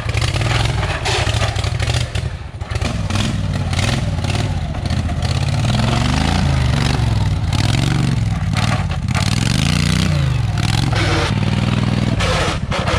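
Off-road lawn tractor's engine revving up and down again and again as it works through a mud obstacle, its pitch rising and falling several times.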